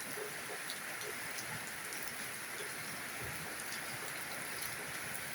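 Steady rain falling, a constant even hiss with scattered small drop ticks.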